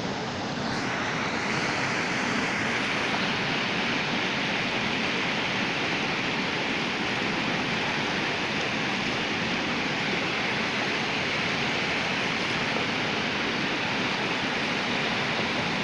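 Waterfall: water falling in a steady, even rush that swells slightly about a second in and then holds level.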